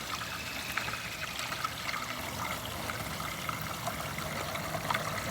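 Rainwater draining out of a house gutter and its downspout in a steady trickling, pouring stream, with scattered small drips and splashes, flowing freely now that the clogged drain hole has been cleared.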